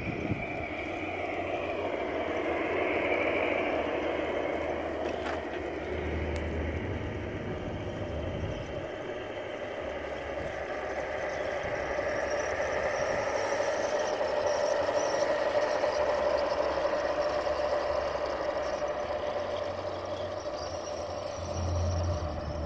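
Outdoor garden-scale model train running on its track, with wheels rattling and squealing on the rails. It grows louder and eases off as it passes.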